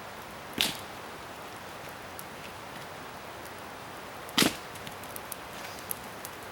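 Two sharp cracks of wood about four seconds apart, with a few faint small crackles after the second.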